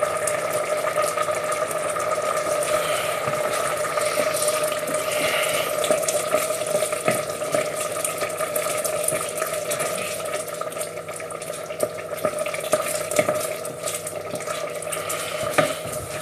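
A pan of risotto rice simmering on the hob: small scattered pops and clicks over a steady hiss and hum.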